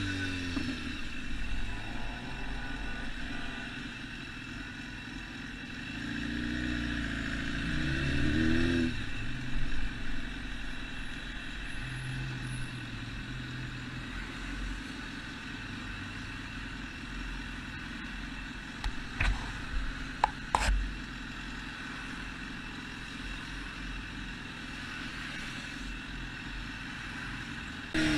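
A road vehicle driving, with steady road noise. The engine pitch rises and falls as it speeds up and slows down, and there are a few sharp knocks roughly two-thirds of the way through.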